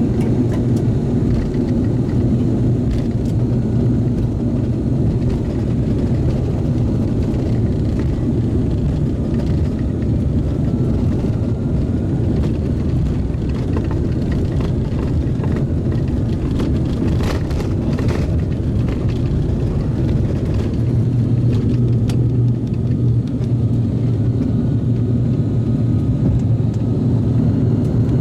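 Inside the cabin of an ATR 42-600 turboprop airliner during takeoff: the twin turboprop engines and propellers make a steady, loud drone with a low, even propeller hum.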